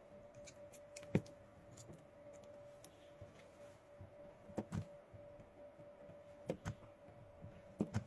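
Sparse small clicks and taps from wires and a lithium battery pack being handled and connected, over a faint steady hum.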